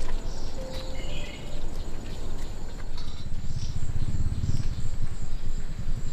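Rural outdoor ambience: a steady high insect buzz with scattered bird chirps, over a low rumble.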